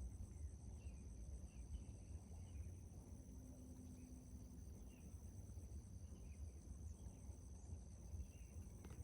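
Faint insect chorus in the background: a steady high-pitched drone with a fast pulsing trill above it, over a low rumble.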